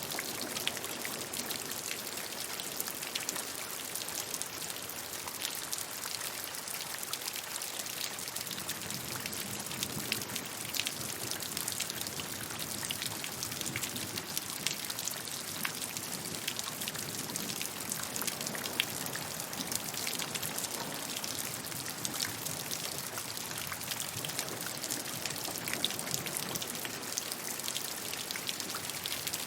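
Steady rainfall with a dense patter of individual drops hitting a surface, with no let-up.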